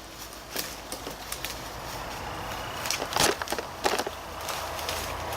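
Footsteps on rough ground, a few irregular crunches and rustles, bunched together about three and four seconds in.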